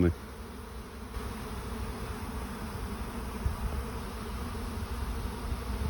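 A swarm of honeybees leaving the hive, a dense steady buzzing of many bees in the air. The colony is swarming after queen cells were left to hatch in the hive.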